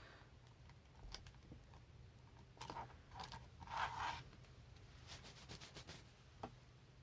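Faint handling sounds of plasticine modelling at a table: small scrapes and clicks, with a louder scraping rustle about three to four seconds in and a quick run of light ticks a little later.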